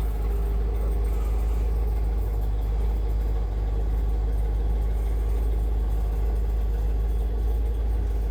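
Tow truck engine idling steadily, a constant low rumble with a faint steady hum above it.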